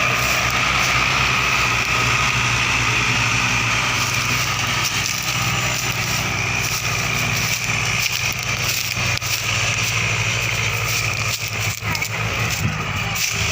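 Mahindra Arjun tractor's diesel engine running steadily.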